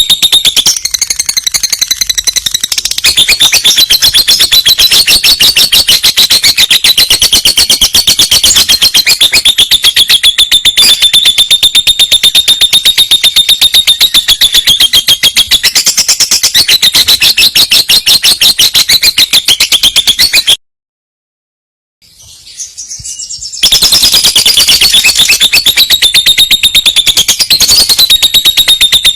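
Lovebird singing its long rolling trill: a loud, shrill rattle of very fast repeated notes. It breaks off about two-thirds through for a second or two of silence, then picks up again.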